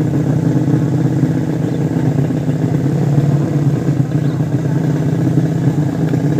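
150 cc motorcycle engine running at a steady speed, with a fast, even pulsing and no revving.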